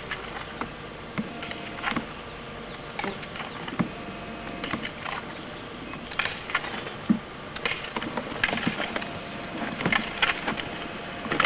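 Kuzmin off-road skate roller skis rolling on a gravel road, with irregular crunches and clicks of wheels and pole tips on the stones.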